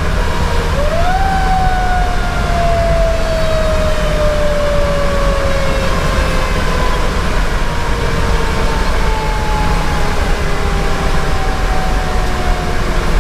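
Federal Q2B mechanical siren wound up briefly about a second in, then coasting down in a long, slow falling wail. Underneath is the steady low rumble of the moving fire engine.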